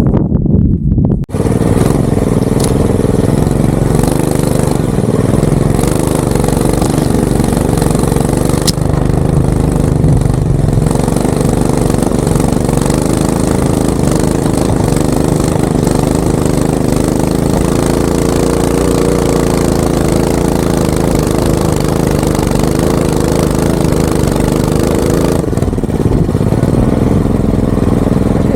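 A 196cc Coleman BT200X minibike's single-cylinder engine, fitted with a header pipe, running steadily with small changes in speed.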